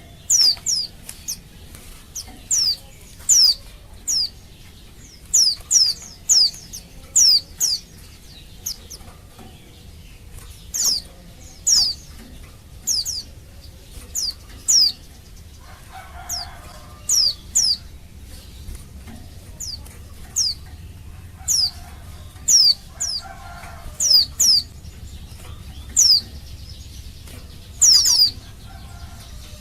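A female white-eye (pleci) calling for a male: short, sharp, high notes that sweep downward, often given in quick pairs, repeated at irregular intervals of about a second.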